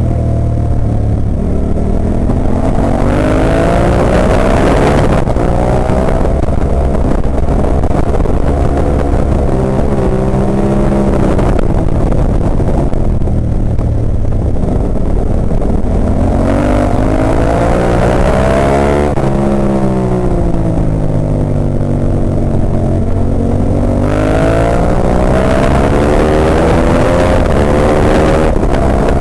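Ducati 998's L-twin engine at racing pace, its pitch climbing repeatedly as it accelerates and dropping as it shifts and slows for corners.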